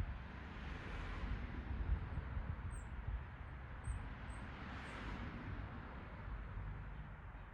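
Outdoor background noise: a steady low rumble that swells twice, with a few faint, short, high bird chirps in the middle.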